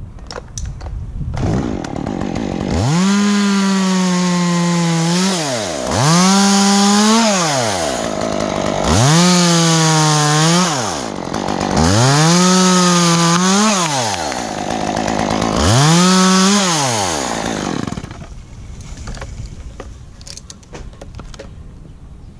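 Two-stroke Stihl chainsaw revved to full throttle five times, each held for about two seconds with the pitch sagging slightly, then let back down to idle: a run of short cuts through pine wood. It idles quietly for the last few seconds.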